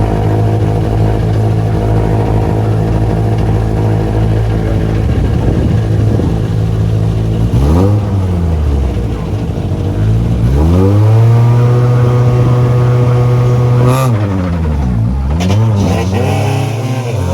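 Rally car engine at the start line, first running at a steady fast idle, then blipped once about eight seconds in. It is then raised to a higher, steady held pitch for several seconds, as on launch control, before the revs fall and rise sharply several times near the end.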